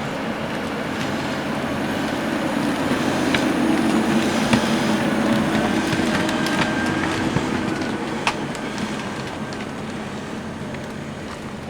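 Log skidder driving past, its diesel engine growing louder toward the middle and then fading, with scattered clanks and rattles from the machine.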